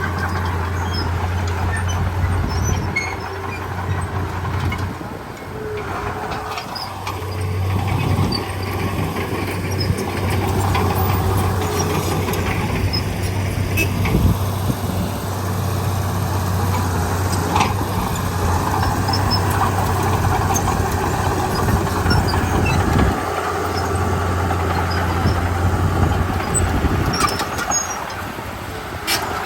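Komatsu D31P bulldozer's diesel engine running steadily with scattered clanks. Its low hum drops away twice, about five seconds in and again past twenty seconds, then comes back.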